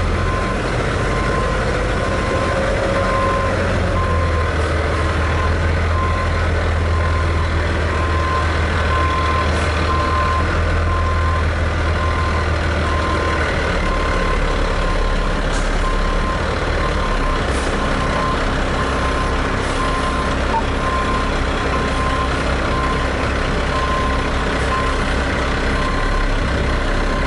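Heavy diesel engine running steadily under a backup alarm that beeps about once a second throughout. The engine's low rumble drops back about halfway through.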